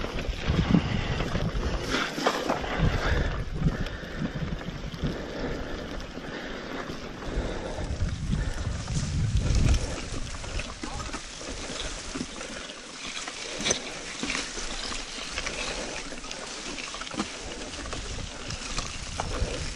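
Mountain bike ridden over a wet, rocky trail: tyres rolling and splashing through water and over rocks with many small knocks and rattles from the bike, and wind gusting on the microphone.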